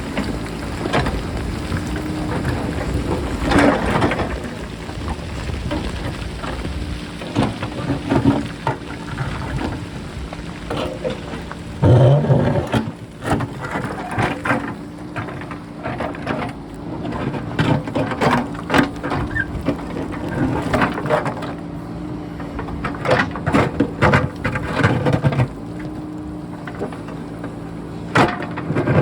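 JCB backhoe loader's diesel engine running steadily while its bucket digs into a rocky hillside, with rocks and stones clattering and rolling in frequent knocks; heavier crashes come about 4 s in, around 12 s and near the end. Wind rumbles on the microphone in the first few seconds.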